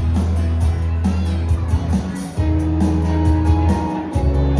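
Live rock band playing an instrumental stretch between sung lines: guitar over held bass notes, with a steady beat.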